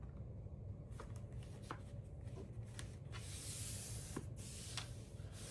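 A clear plastic film sheet being guided and pressed down onto foam board by hand: rubbing and rustling with a few small clicks, and a brief hiss of the sheet sliding about three seconds in, over a faint low hum.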